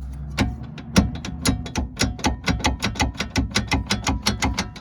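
Ratchet wrench clicking in a fast, even run of about seven clicks a second.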